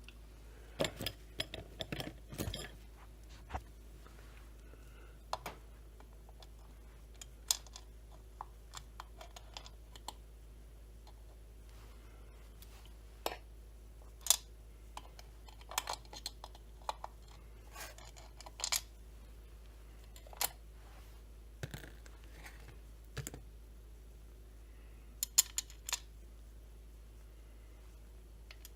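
Irregular light clicks and clinks of metal parts being handled and fitted together while a chainsaw crankcase is assembled, with a small flurry near the start and single sharp taps every second or two after that.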